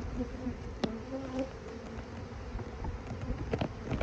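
Honeybees buzzing around an open hive, with individual bees droning past close by in the first second or so. A couple of short sharp knocks, about a second in and near the end.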